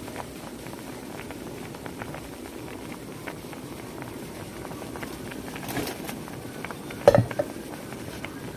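A pot of water with sweet corn boiling, bubbling steadily with many small pops. A sharp knock about seven seconds in.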